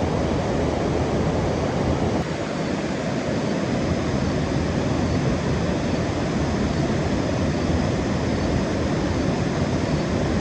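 Water rushing steadily down a wild mountain waterfall, an even, unbroken noise.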